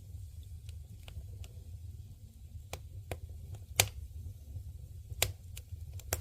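Wood campfire crackling: irregular sharp pops and snaps over a low steady rumble, the loudest pops about four and five seconds in.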